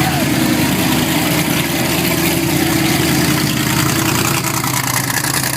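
Engine idling steadily, a constant low hum with a haze of outdoor noise over it.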